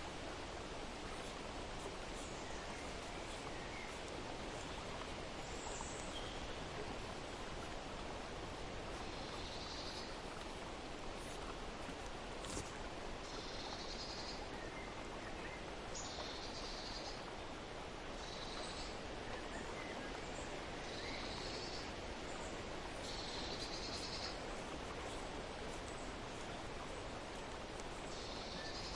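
Outdoor nature ambience: a bird giving short, high calls over and over, one every two or three seconds from about a third of the way in, over a steady rushing background noise.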